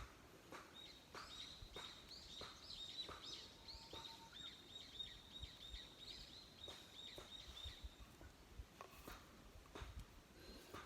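A small bird calling: a long run of quick, high repeated chirps starting about a second in and stopping around eight seconds, over faint scattered clicks.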